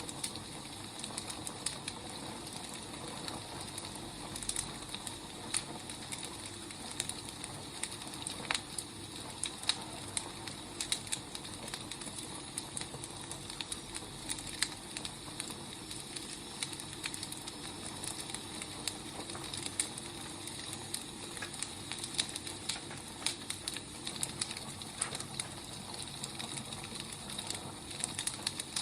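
Wood fire burning with a steady hiss and irregular sharp crackles and pops of the firewood.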